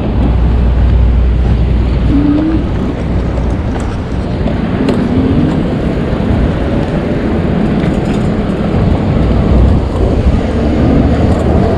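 Wind rushing and buffeting over the microphone of a moving e-bike, with road and traffic noise under it and a few short rising whines.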